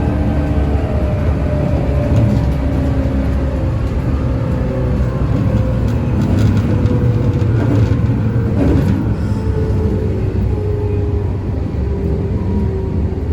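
JNR-era electric train running, heard from on board: a steady loud rumble of wheels and running gear, with a motor and gear whine that slowly falls in pitch.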